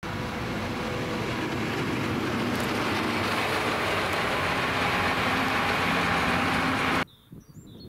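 A train passing on the rails, a steady loud rush of wheel and rail noise that cuts off abruptly about seven seconds in. Faint birds chirp after it stops.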